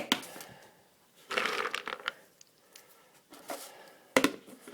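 Rustling and crinkling of hands rummaging through packaging to get cashew nuts, with a few short clicks and a sharp knock near the end.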